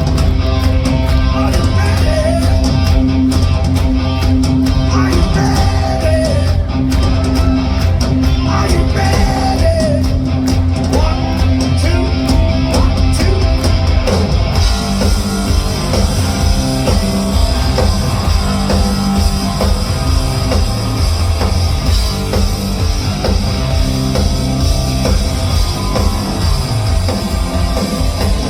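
Live rock band playing a heavy song, with distorted electric guitars, bass and a drum kit. A lead guitar bends notes in the first half.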